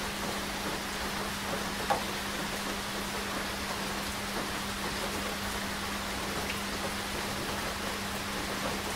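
Rain falling steadily as an even hiss, with one sharper, louder drop tap about two seconds in. A faint low steady hum runs underneath.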